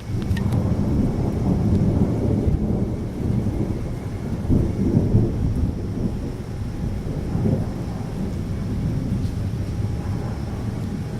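Thunder in a strong electrical storm: a sudden loud crack of a nearby strike, then a long, deep rolling rumble that swells again about four to five seconds in.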